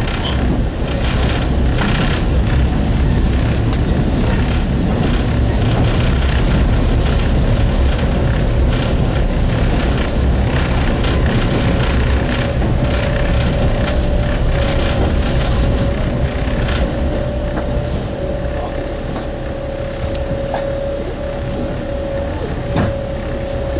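Single-car diesel railcar running on the line: a steady low rumble of engine and wheels on rail with occasional clicks, a steady whine coming in about a third of the way through and growing stronger, and the overall noise easing off toward the end.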